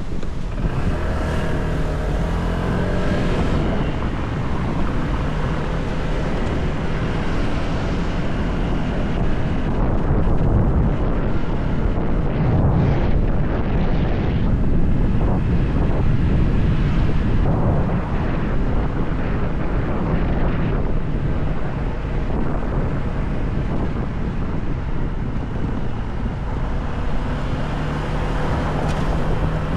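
Motorcycle engine running on the move, buried in heavy wind rush on the microphone; the engine pitch rises and falls in the first few seconds.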